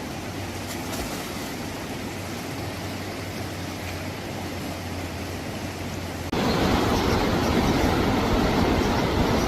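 Steady rushing noise with a faint low hum. About six seconds in it jumps suddenly to a louder, fuller rush.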